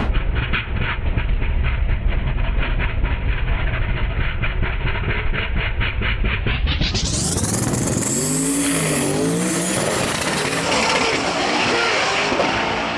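Drag race cars running down the strip at full throttle, heard dull with a rapid regular pulsing. About seven seconds in this gives way to a crowd cheering and shouting.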